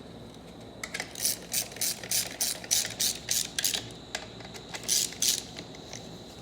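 Hand ratchet clicking in quick strokes, about three a second for some three seconds, then two more a little later, as it runs in the bolts of a TH400 transmission's valve body, snugging them evenly but not yet tight.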